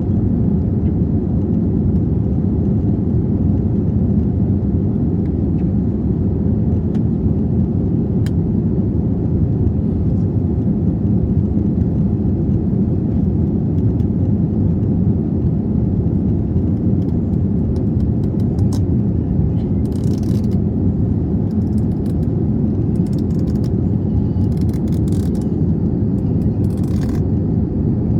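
Steady low rumble of a jet airliner's engines and airflow, heard inside the passenger cabin. A few faint rattles and clicks come in the last third.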